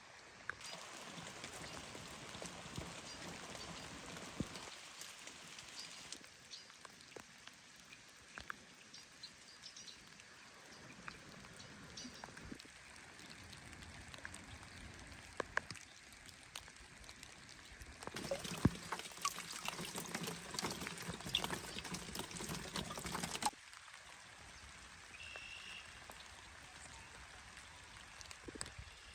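Rain falling and dripping, a steady patter with many separate drop ticks. It changes abruptly several times, getting busier and then stopping suddenly about three-quarters of the way through.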